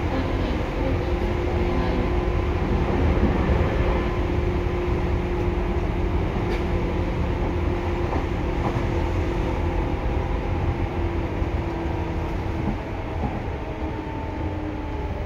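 Seibu 2000 series electric train running, with a steady rumble and a droning hum that fades about two-thirds of the way through.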